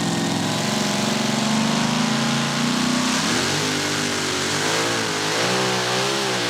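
Competition pulling tractor's engine running hard under load during a pull. Its pitch climbs slowly, jumps about three seconds in, then wavers up and down.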